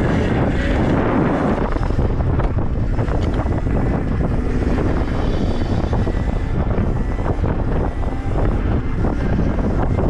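Wind buffeting the microphone while the electric dirt bike is ridden, a loud steady rush heaviest in the low end.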